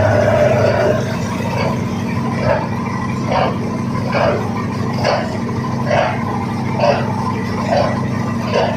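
Boat engine running with a steady low drone, and a short sharp sound repeating evenly about once a second over it.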